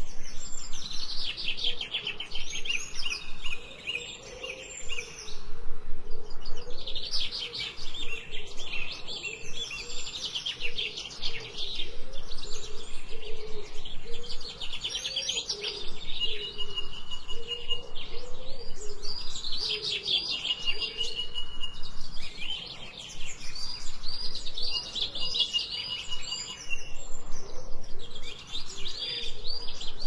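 Songbirds singing in repeated bursts of rapid high chirps, each burst a few seconds long with short pauses between, some ending in a held whistled note, over a fainter low wavering sound.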